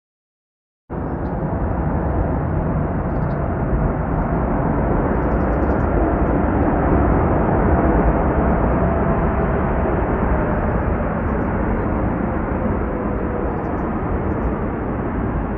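Jet airliner taking off, its engines giving a loud, steady rumbling roar with a faint whine that sinks slightly in pitch. The sound cuts in abruptly about a second in.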